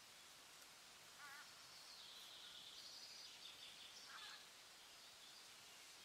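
Faint forest ambience: birds calling over a steady hiss, with a short wavering call about a second in and a high, drawn-out call from about two to four and a half seconds.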